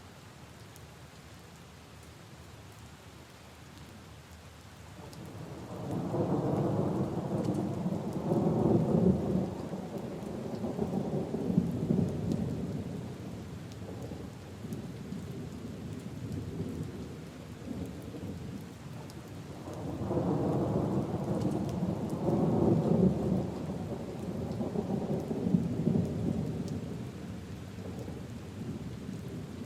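Steady rain pattering on puddles and leaves, with two long rolls of thunder rumbling over it, the first swelling in about five seconds in and the second about twenty seconds in, each lasting several seconds before fading.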